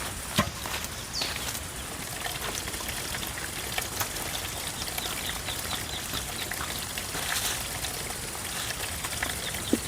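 A few short, high chirps from small birds over a steady outdoor hiss, with an occasional sharp knock.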